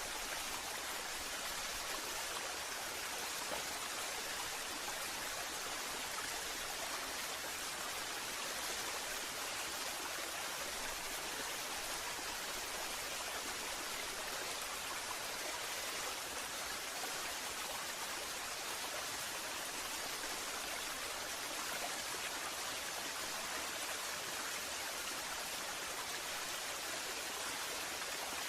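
Waterfall: water falling and splashing in a steady, even rush with no pauses.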